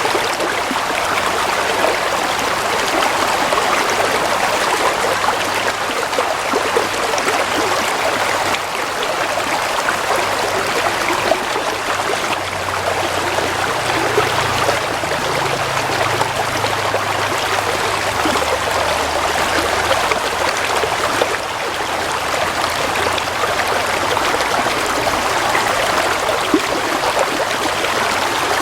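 Shallow stream of water flowing and trickling steadily, a continuous babbling rush.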